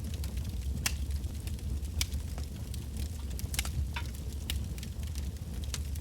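Wood burning in a bonfire: irregular sharp crackles and pops over a steady low rumble of the flames.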